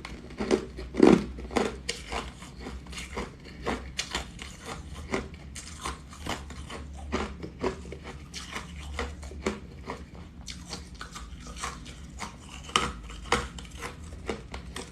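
Someone biting and chewing crunchy green ice close to the microphone: a few loud, sharp crunches in the first two seconds, then a quick run of smaller crunches and clicks.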